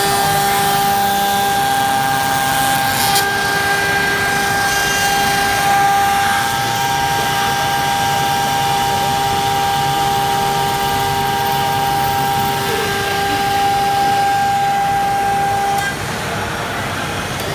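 Flatbed template cutter running, its milling spindle routing plastic sheet with a steady whine of several held tones over machine noise. Near the end one tone drops out and the sound gets a little quieter.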